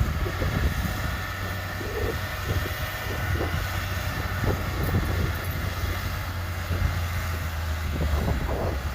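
Diesel engine of heavy earthmoving machinery running with a steady low drone.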